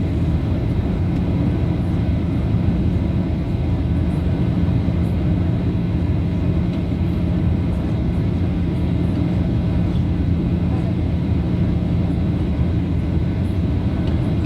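Jet airliner's engines and airflow giving a steady low rumble with a faint steady hum.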